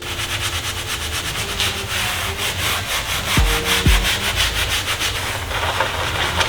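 A detailing brush scrubbing surfaces in a car's engine bay: quick, rhythmic rubbing strokes.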